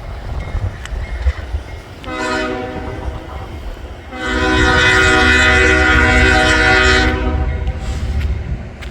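Diesel locomotive air horn sounding two blasts, a shorter one followed by a louder, longer one, over the low rumble of the locomotive's engine.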